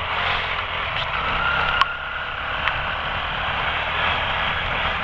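Quad (ATV) engine running hard at full throttle, under a steady rush of wind and rain noise on a helmet-mounted camera, with one sharp click a little under two seconds in.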